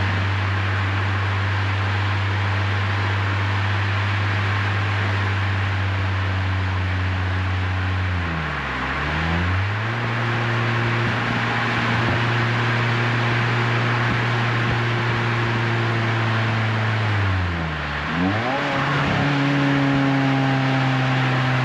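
Renault Twingo RS Gordini's 1.6-litre four-cylinder engine running at steady revs through an Inoxcar 80mm stainless aftermarket exhaust, with road and wind noise. Twice the engine note briefly dips and comes back up, about a third and four fifths of the way in.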